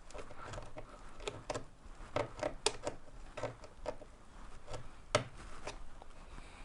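Irregular small clicks, taps and rubbing of hands handling a battery pack and its wires on a workbench, a few sharper clicks in the middle and one about five seconds in.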